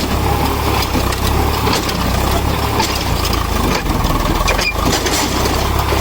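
Sonalika tractor's diesel engine running steadily with a low, pulsing rumble.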